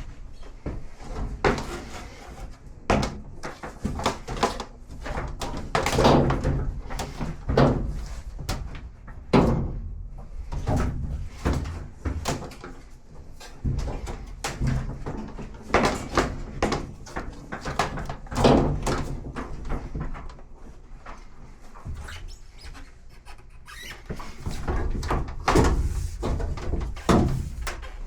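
Irregular clunks, knocks and squeaks from the sheet-metal cabinet and parts of an older top-load washer being handled and fitted back into place.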